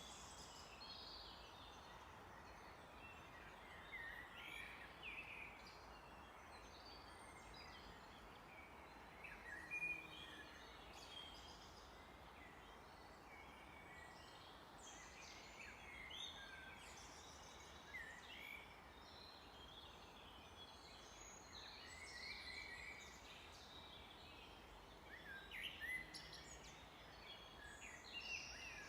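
Several small birds singing and calling, with short chirps and whistles scattered throughout, faint over a steady background hiss.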